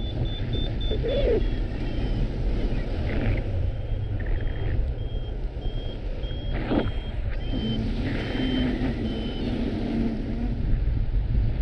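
Flight variometer beeping in short, evenly spaced beeps, the climb tone that signals rising air, over heavy wind noise buffeting the microphone.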